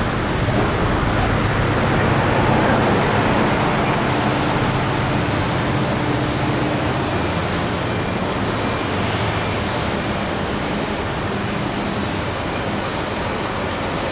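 Steady rushing noise with faint steady low hums underneath.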